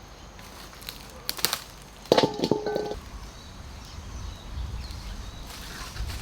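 Scattered clicks and knocks from a longan tree being shaken and its fruit dropping, with a short pitched sound about two seconds in.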